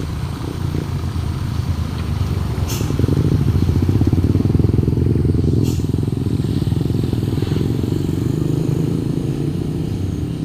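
Hino FM 260 Ti truck's diesel engine running loud as the truck passes, swelling to a peak about four to five seconds in and then easing off, with a few brief high clicks along the way.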